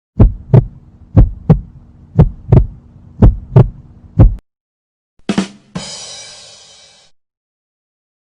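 Heartbeat sound effect: deep lub-dub thumps in pairs, about one beat a second, stopping after about four seconds. About a second later comes a short knock, then a hissing, ringing sound that fades away.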